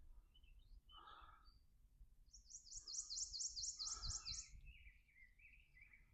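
A songbird singing: a fast run of about ten high, repeated notes lasting about two seconds, followed by lower warbling notes toward the end.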